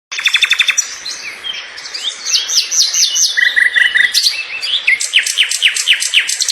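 Small birds chirping and calling, with quick runs of short, high notes that sweep downward and a brief fast trill near the middle.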